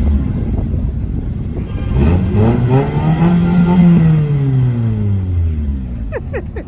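A car engine revving: its pitch climbs for about two seconds, then falls back over the next two. A few brief high chirps come near the end.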